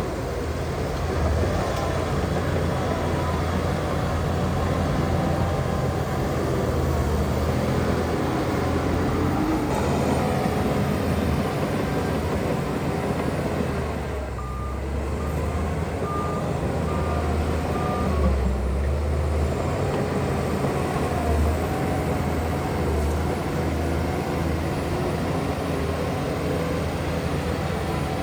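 Diesel engines of heavy earthmoving machines, a bulldozer and dump trucks, running steadily under load. A reversing alarm beeps four times about halfway through.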